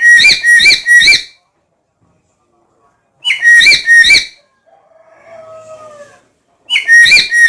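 Black-capped lory calling: three loud bouts of shrill, whistled notes, each a quick run of two or three calls. A fainter, lower gliding call comes between the second and third bouts.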